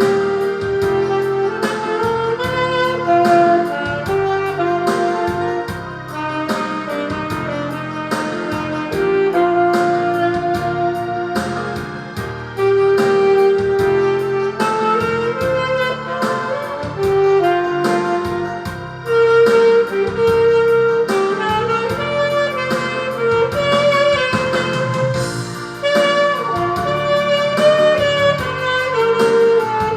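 Yamaha YAS-280 alto saxophone playing a slow ballad melody in long held notes over a karaoke-machine backing track with a steady beat.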